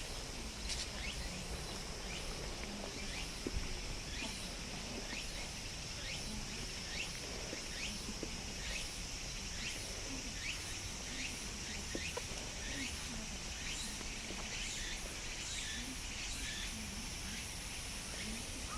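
Cicadas buzzing in a steady high drone, with short high chirps repeating about once or twice a second, over a low steady rush of background noise.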